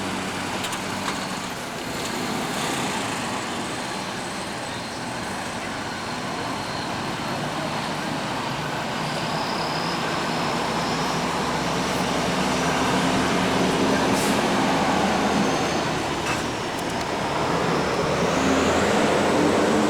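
Steady road-vehicle traffic noise, with engines running and tyres on the road, growing gradually louder over the stretch.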